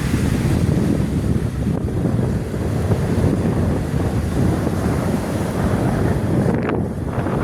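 Wind buffeting the microphone: a loud, uneven low rumble that rises and falls throughout.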